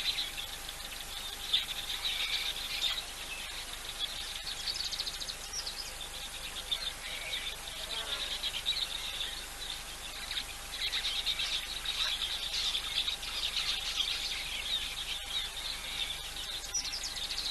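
Outdoor insect chorus of rapid, buzzing trills, with scattered short bird calls, including a brief falling call about eight seconds in, and a faint steady tone underneath.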